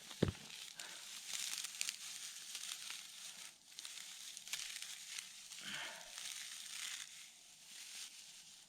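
Rustling and crinkling of dry material being handled, with many small crackles and a sharp knock just after the start.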